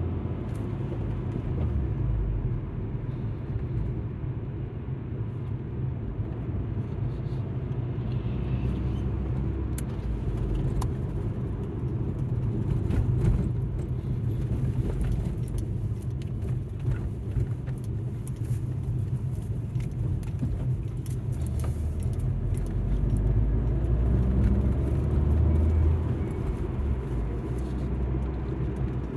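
Alfa Romeo MiTo heard from inside the cabin while driving: a steady low engine and road rumble that swells a little now and then, with scattered small clicks over it.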